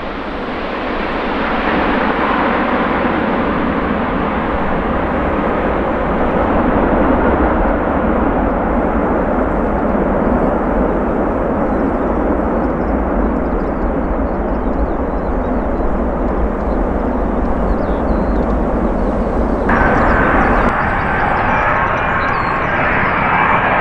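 Jet airliner engines heard close by as a loud, steady rush that builds over the first two seconds. About twenty seconds in, the sound changes suddenly to a different engine noise with a steady high whine.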